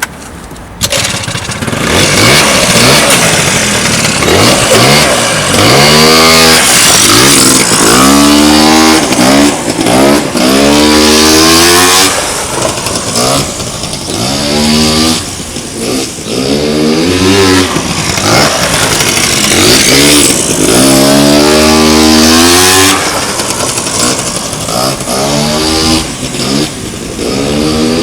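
Honda Dio ZX scooter's 50 cc two-stroke single-cylinder engine, freshly rebuilt with a new cylinder and reed valve, being test-run. It comes in abruptly about a second in, then its revs climb and fall back again and again, loud and close.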